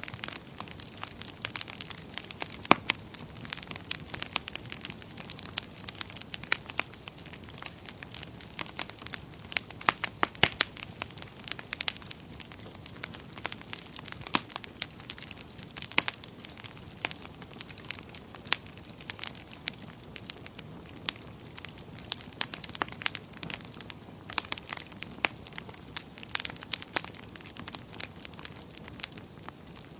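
Wood fire crackling in a fireplace, with irregular sharp pops and snaps over a soft steady hiss of flame.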